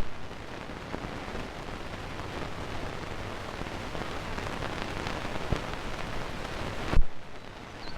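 Steady rain falling, a dense even hiss with scattered drop ticks. It cuts off abruptly with a loud low thump about seven seconds in.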